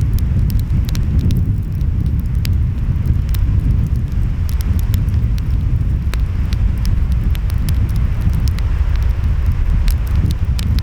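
Wood fire crackling, with scattered sharp pops, over a steady low rumble of ocean waves and wind.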